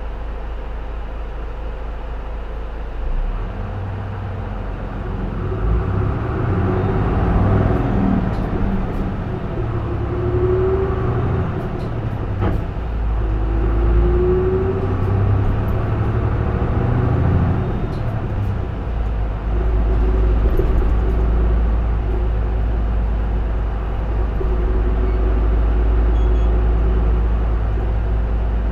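Diesel engine of a J-Bus PKG-LV234L2 (Isuzu Erga) city bus, heard from inside the cabin. About three seconds in, the engine note rises under acceleration, then goes up and down with short breaks through the middle, with a brief rising whine twice. From about twenty seconds in it runs steadily.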